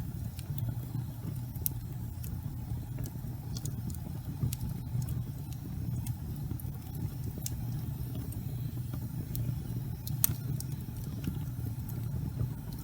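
Fireplace fire burning with a steady low rumble of flame and scattered light crackles, with a sharper pop about ten seconds in.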